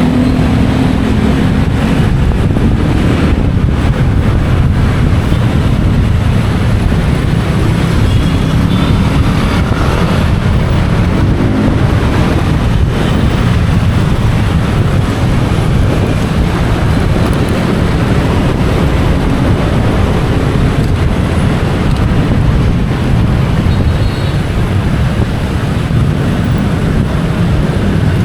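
Motorcycle taxi riding through city traffic: a steady low rumble of engine, road and wind noise on the microphone.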